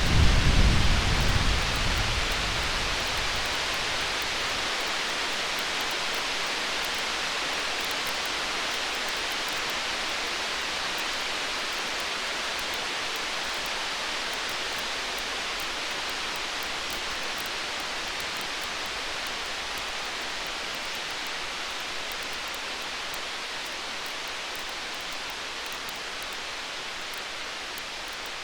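Distant thunder: a deep rumble right at the start that fades away over about three seconds. Under it, a steady rain-like hiss with faint crackles from a wood fire.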